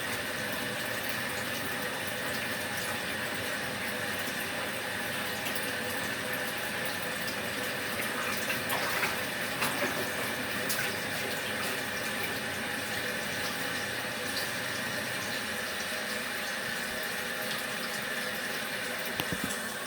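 Water running steadily from a tap into the tub of a portable washing machine as it fills.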